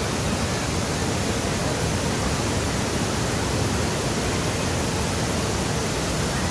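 A waterfall's steady rush of falling water, an even noise with no breaks.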